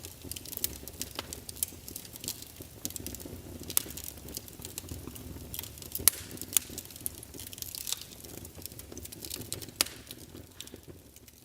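Wood fire crackling in a fireplace: frequent sharp pops and snaps over a steady low rumble of burning, fading out near the end.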